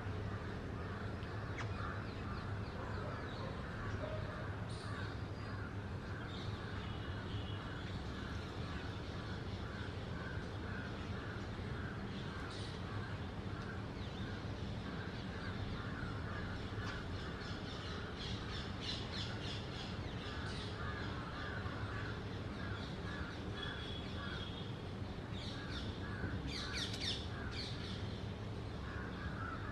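Birds calling steadily: a run of harsh, caw-like calls repeating about two or three times a second, with spells of sharper, higher chirps about two-thirds of the way through and again near the end.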